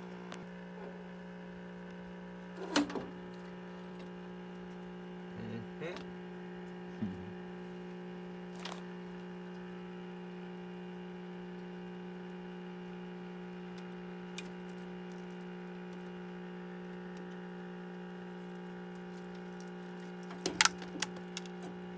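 A steady hum runs throughout, with scattered clicks and metallic knocks as screws and heater parts are handled; the loudest clatter comes near the end.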